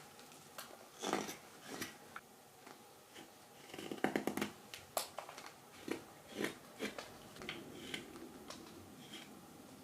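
Mora 106 carving knife slicing shavings from green wild cherry wood, smoothing off axe marks: a series of short, irregularly spaced cutting strokes, with a quicker run of cuts about four seconds in.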